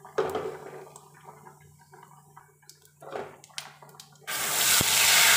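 Ginger-garlic paste hitting hot oil and roasted cumin in a kadhai: after a few quiet knocks, a sudden loud, steady sizzle starts about four seconds in.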